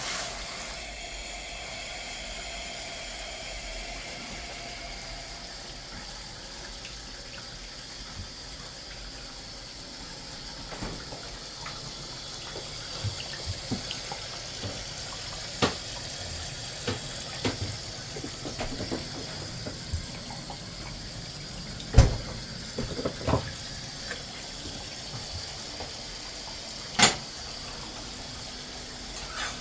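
Water running from a tap, filling a cooking pot, with scattered sharp knocks of pots and utensils; the loudest knocks come about 22 s and 27 s in.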